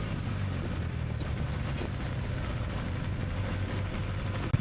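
Steady low engine drone with a hissing wash over it, and one sharp knock just before the end.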